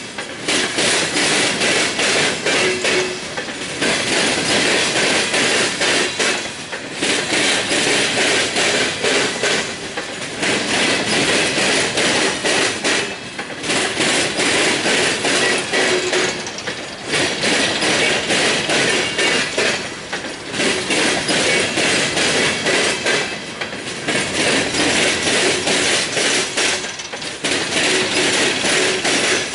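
Hopper cars of a CSX freight train rolling past on the rails: a steady clatter of wheels knocking and banging over the track. The clatter eases briefly about every three and a half seconds.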